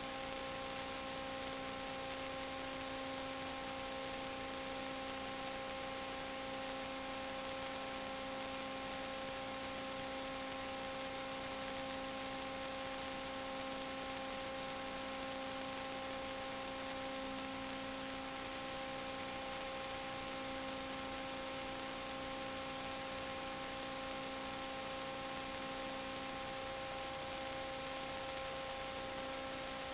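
Steady electrical hum with hiss, several constant tones held throughout and nothing else happening.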